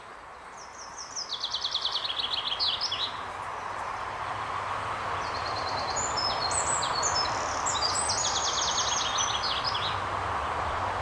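A songbird singing twice, each song a fast run of repeated high notes stepping down in pitch and ending in a flourish, the second longer than the first. Under it, a steady rushing background noise.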